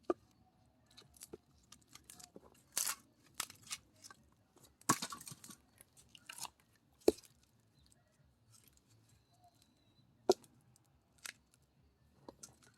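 Axe blows on dry firewood: several sharp knocks a few seconds apart, some with a longer cracking and crunching as the wood splits apart.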